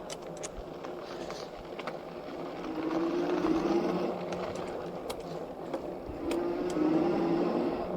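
E-bike rolling downhill on a dirt road: steady tyre and riding noise with scattered small ticks, and a low whine that swells twice, around three seconds in and again near seven seconds.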